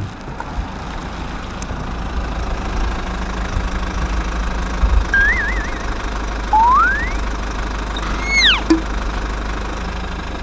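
A small engine or motor running steadily with a low drone. A few brief whistling glides sound over it, one warbling and one rising about five to seven seconds in, and a falling one near eight and a half seconds.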